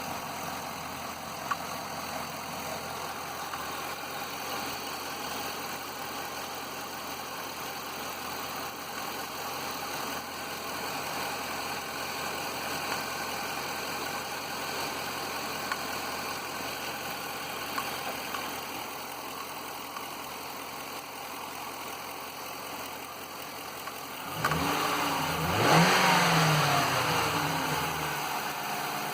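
Mercury Grand Marquis V8 idling, with a sharp knock now and then at irregular intervals that doesn't follow engine speed; the cause is undiagnosed. About 25 seconds in the engine is revved briefly and settles back to idle.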